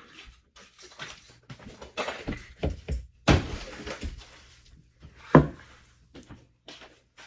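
Kitchen handling sounds: scattered knocks and clicks of utensils and containers being picked up and set down, a longer rattling clatter a little after three seconds in, and one sharp knock about five seconds in.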